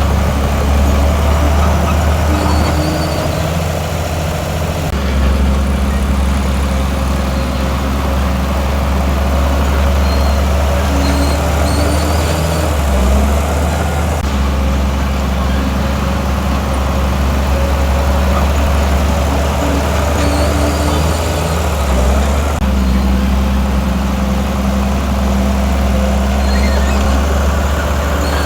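Heavy diesel engine of earthmoving machinery running steadily with a deep drone. The sound shifts abruptly three times.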